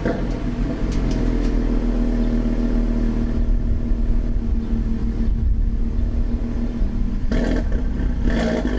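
Audi RS3's inline five-cylinder engine idling, recorded with the microphone right up by the exhaust and a lot of wind on the microphone. The idle has a loppy, misfiring-sounding beat, and the engine gives short revs near the end.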